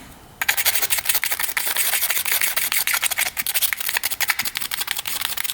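Fast, continuous abrasive rubbing strokes on a carburettor part being scrubbed clean, beginning about half a second in.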